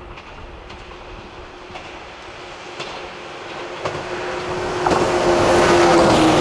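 115 series electric train approaching on the rails, getting steadily louder, with wheels clicking over rail joints about once a second and a steady hum. It is much louder from about five seconds in as it draws close.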